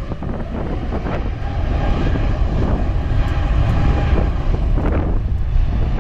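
Airbus A350-900 jet engines running, a faint steady whine over a heavy rumble, with strong wind buffeting on the microphone.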